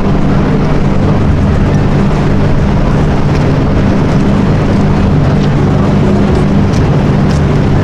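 A sports car's engine and exhaust running loudly at steady, low revs, with a deep, even note.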